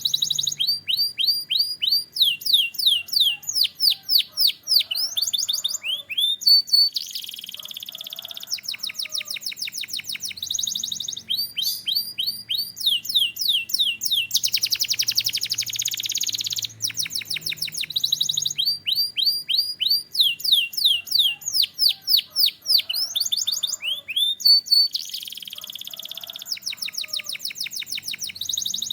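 Domestic canary singing continuously: phrases of fast, repeated down-sweeping whistled notes alternating with dense buzzy trills.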